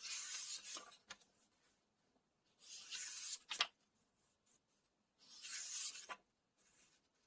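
Paper pages of a book being turned one by one: three rustling swishes, each about a second long and ending in a short crisp snap as the page falls over.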